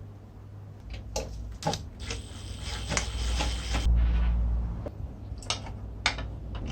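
Metal tool parts being handled: a few sharp clicks, then a scraping slide of about two seconds followed by a dull rumble, and two more clicks near the end.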